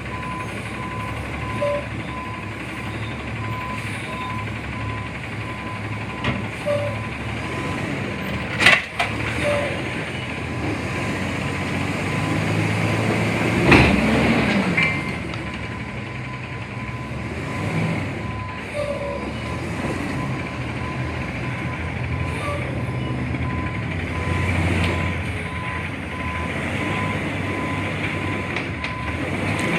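CNG front-load garbage truck running with its reverse alarm beeping over and over. There is a sharp bang about nine seconds in and a louder clatter around fourteen seconds.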